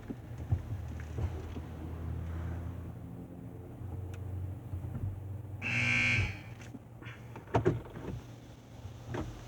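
Automatic car wash machinery, heard from inside the car, running with a steady low hum and a few knocks. About six seconds in, a loud harsh buzz sounds for roughly half a second.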